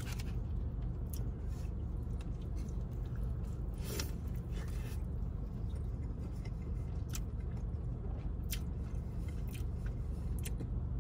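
Close-up chewing and biting of breaded fried chicken, with scattered wet mouth clicks and crackles, over a steady low hum in the car cabin.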